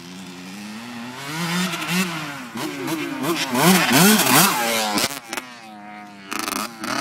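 Dirt bike engine revving up and down over and over as the bike rides close by, growing louder to a peak, then falling back to a low run about five seconds in before another short burst of throttle near the end.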